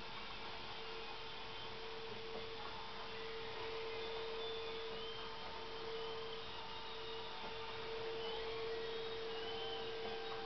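Steady hum at one constant pitch, with faint short high-pitched whistles now and then.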